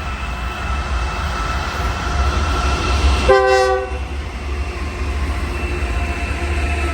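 A passing train with a steady low rumble. A short locomotive horn blast of several notes sounds a little over three seconds in.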